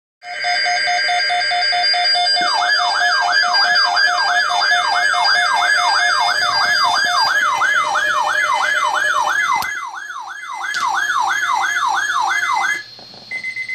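Emergency weather alert tones: about two seconds of steady pulsed tones, then a warbling alarm tone sweeping up and down a little over twice a second. It stops about 13 seconds in, followed by a few short beeps. The tones herald an Environment Canada severe weather bulletin.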